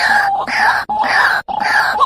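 White-breasted waterhen (truwok) giving its repeated ruak-ruak calls, about two calls a second in a steady series with short breaks between them.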